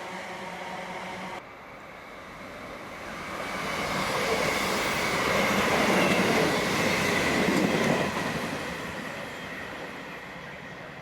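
A train passing at speed, growing louder to a peak midway and then fading, with a steady high whine over the rushing wheel noise. Before it, a steady electrical hum cuts off suddenly about a second and a half in.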